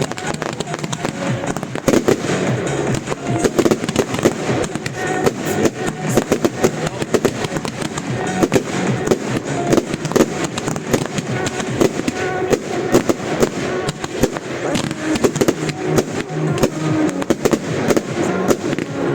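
Fireworks going off in rapid, continuous succession: many sharp bangs and crackles, with music playing along.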